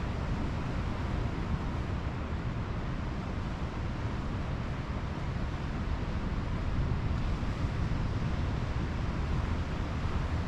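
Pacific Ocean surf washing onto the beach, mixed with wind rumbling on the microphone, as one steady wash of noise with no single wave standing out.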